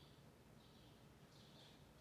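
Near silence: faint early-morning outdoor ambience with a low hum and soft, high chirps repeating roughly once a second.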